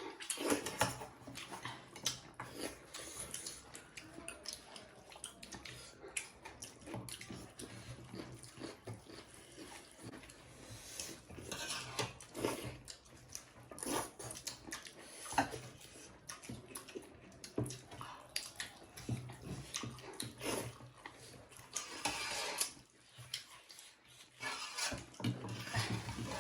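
People eating a meal of buffalo-meat gravy with rice: irregular chewing and wet mouth sounds mixed with occasional clinks of dishes and cutlery.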